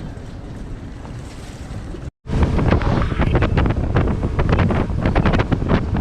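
Boat under way on the sea: a steady rush of engine and water for about two seconds, then, after a sudden cut, much louder wind buffeting the microphone over rushing water.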